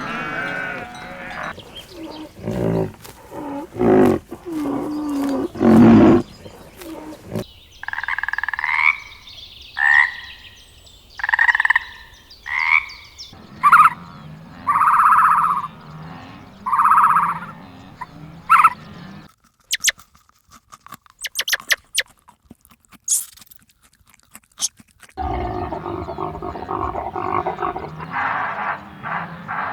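A run of different animal calls edited one after another: several short repeated calls about a second apart, croak-like sounds, a patch of sparse clicks, and another burst of calls near the end.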